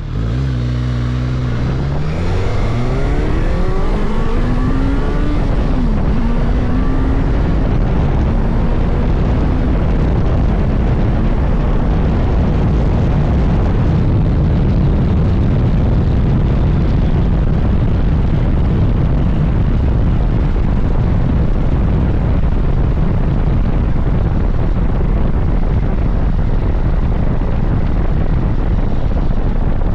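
Suzuki GSX-S1000GT's inline-four engine accelerating, its pitch climbing over the first few seconds with a short dip near five seconds, then settling into a steady drone under a loud, even rush of wind at speed.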